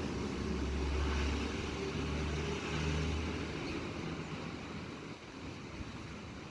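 Rain falling as an even hiss, with a motor vehicle's engine rumbling close by, the rumble fading away over the last couple of seconds.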